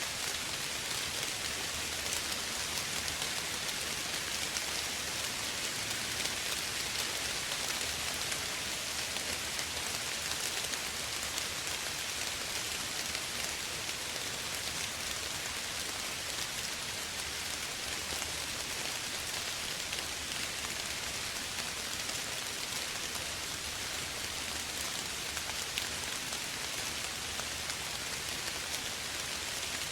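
Steady soft rain falling, an even hiss with fine pattering of drops.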